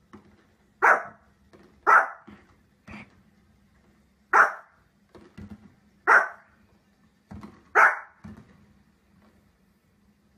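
A small fluffy dog barking: five loud, sharp single barks spaced one to two and a half seconds apart, with fainter short sounds between them.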